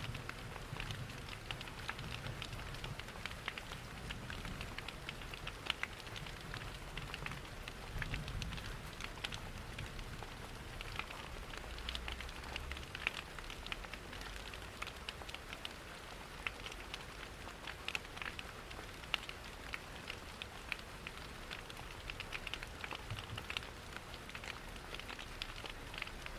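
Steady rain pattering, mixed with the irregular crackle of a log fire in a fireplace, over a low rumble that is stronger in the first half.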